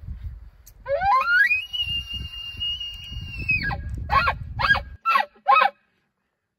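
Bull elk bugling: one long whistle that climbs over about a second and is held for about two seconds, then falls and breaks into four quick chuckles. A low wind rumble runs underneath until the sound cuts off suddenly near the end.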